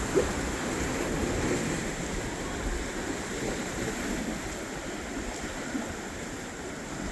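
Steady wash of waves and wind at an ocean inlet, with wind rumbling on the microphone.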